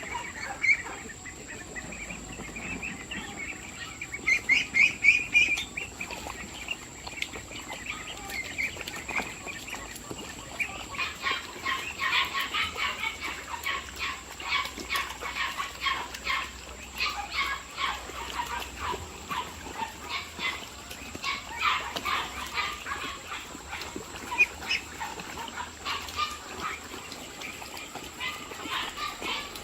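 Flock of chickens calling, many short overlapping clucks, with a louder run of calls about four seconds in and busier calling from about ten seconds in.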